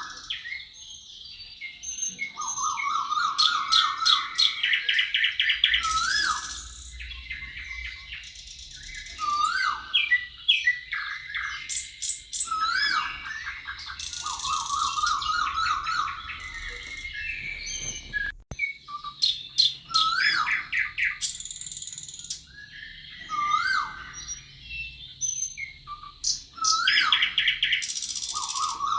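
Several wild songbirds singing together in a busy dawn-chorus-like mix of whistled slurred notes, rapid trills and high thin chirps. One short upslurred whistle phrase comes back every few seconds.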